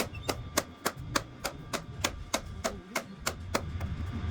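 Hammer strikes in a steady rhythm, about three sharp blows a second, as in wheel-making work.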